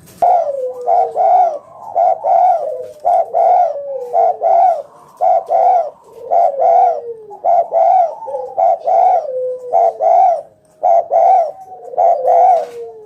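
Spotted dove (tekukur) cooing over and over in deep, loud notes, with a trailing coo that slides down in pitch.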